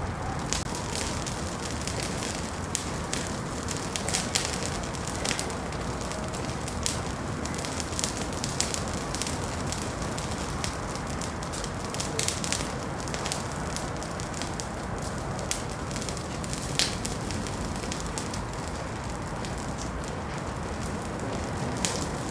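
Wood fire burning in a fireplace, with a steady low rush of flame and many sharp, irregular crackles and pops.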